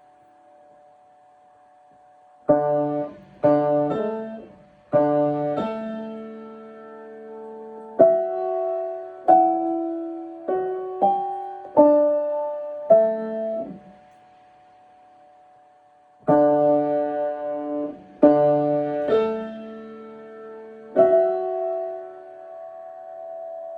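Piano being played in short phrases: after a couple of seconds of quiet, a few struck chords, then a run of single melody notes, a pause of about two seconds, and more chords, the last one left ringing.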